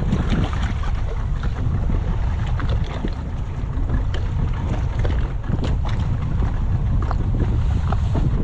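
Wind buffeting the microphone on a small boat at sea: a steady low rumble with scattered light knocks.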